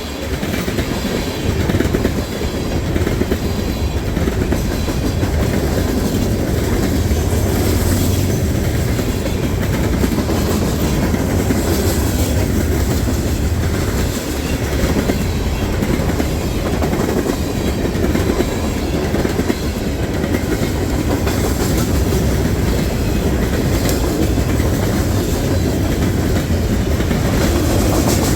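Manifest freight train's cars rolling past, a continuous steady rumble of steel wheels with clickety-clack over the rail joints.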